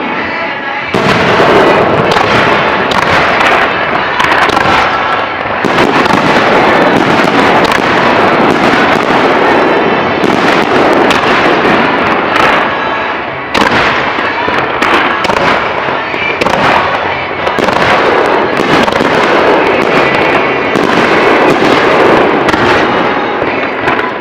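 Fireworks display in a dense, near-continuous barrage: overlapping shell bursts with crackling, loud throughout, rising about a second in and surging again about halfway through.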